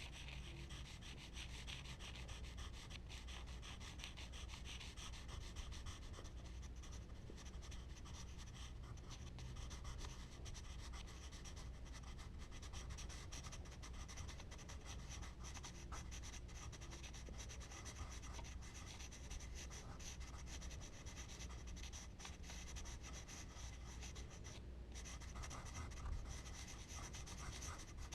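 Charcoal scratching and rubbing across smooth Bristol paper in a continuous run of close strokes, over a steady low hum.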